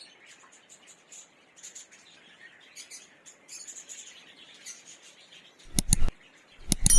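Small birds chirping faintly in the background, then metal clattering twice near the end, the last knock leaving a brief ringing, metallic tone.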